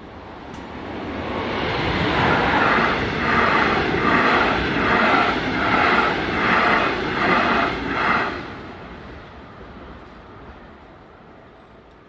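Train passing over a level crossing: the noise swells, then holds with a regular clatter about every 0.8 s, cuts off abruptly about eight seconds in, and dies away.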